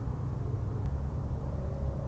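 Suzuki Hayabusa inline-four with a full VooDoo 4-into-1 exhaust, baffle removed, running at a steady low pitch with a deep exhaust note and no revving.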